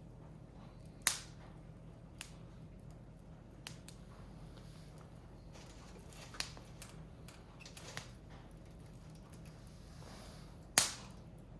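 Firewood burning and crackling, with sharp pops: two loud cracks, about a second in and near the end, and several fainter pops between.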